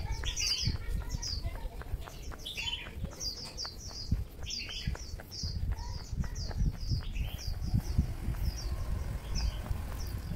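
Small birds chirping repeatedly, short high chirps coming a few times a second, over a low rumble.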